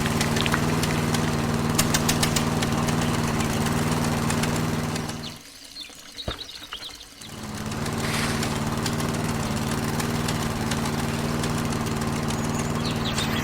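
A small engine running steadily on a model-scale DIY tractor. It fades out for about two seconds midway, with a few clicks, then comes back and runs steadily again.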